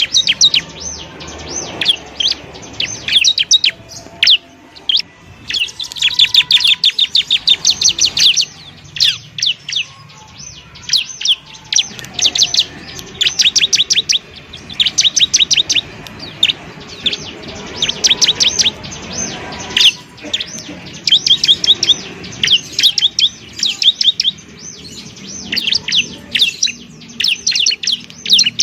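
Bar-winged prinia (ciblek) singing: fast runs of sharp, high, quickly repeated notes, each run a second or two long, with short pauses between them.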